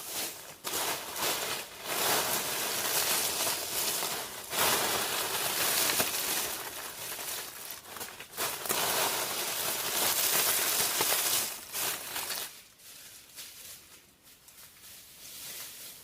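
Rustling, crinkling handling noise, as of dry plant material being worked, irregular and continuous for about twelve seconds, then much fainter.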